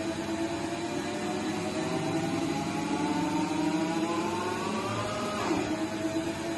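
Gildemeister NEF 600 CNC lathe running: a whine from its drive climbs slowly in pitch for about five seconds, drops suddenly near the end, and starts climbing again over a steady machine hum.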